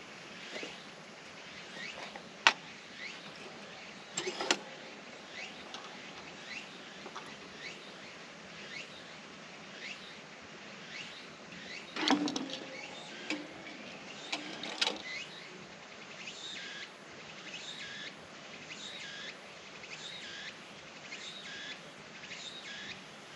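A bird calling over and over with short, falling chirps, about one or two a second. A few sharp knocks and clatters, the loudest about two and a half seconds in and a longer one about halfway through.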